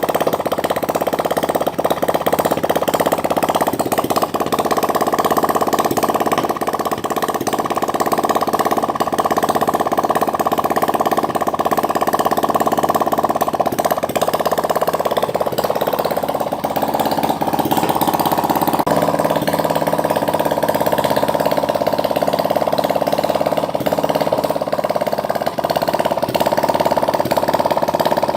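A water-cooled 175cc engine running steadily at a constant speed. Its note shifts slightly about halfway through and again about two-thirds of the way in.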